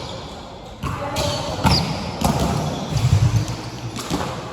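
A volleyball being struck and bouncing during play, several sharp thumps spread across a few seconds with a short echo after each.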